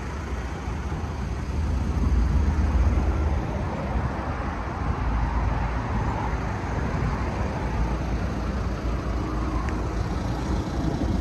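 Steady road traffic noise: an even rushing haze over a deep rumble that swells for a second or so about two seconds in.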